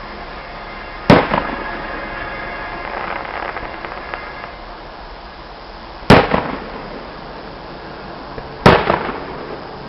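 Three loud fireworks bangs, the second about five seconds after the first and the third two and a half seconds later, each trailing off in echo.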